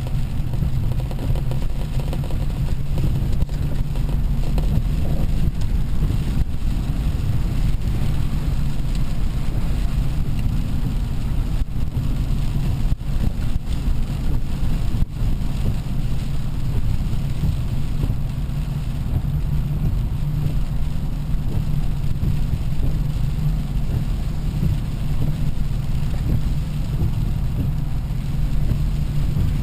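Steady low rumble of a car heard from inside the cabin, with a faint even hiss over it.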